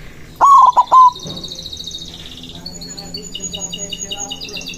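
White zebra dove (perkutut) cooing: a loud burst of three or four quick notes about half a second in, lasting under a second. Smaller birds keep up rapid, high-pitched chirping trills throughout.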